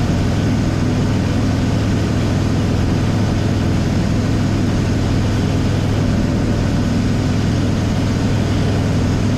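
Small single-engine propeller airplane's engine running steadily at full throttle during the climb-out just after takeoff, heard from inside the cockpit as a loud, even low drone.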